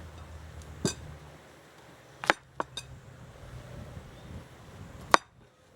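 Kitchenware clinking: a handful of separate sharp clicks, such as a utensil against dishes, the loudest about five seconds in.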